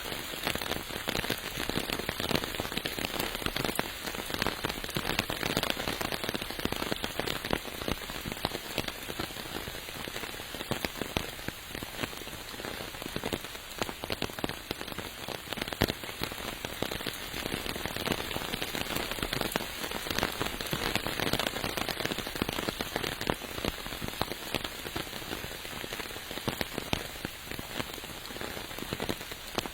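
Steady rain: a dense, even patter of many drops striking nearby surfaces.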